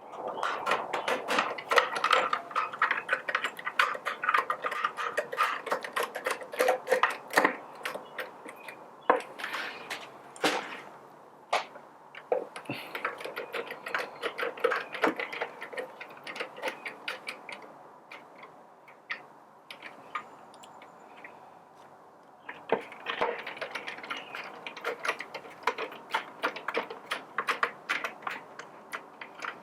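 Screwdriver tightening the screws that hold the upper casting of a Baratza Forte grinder: runs of rapid clicking that last several seconds each, with short pauses between screws.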